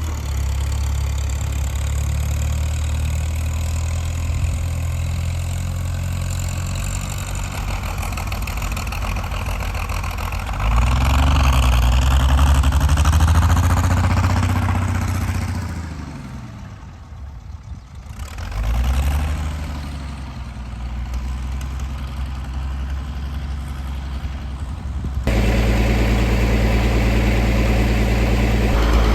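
Tractor engine running. It picks up and runs louder about ten seconds in, then its note sinks away almost to nothing and comes back up. From about twenty-five seconds it runs steadily and louder.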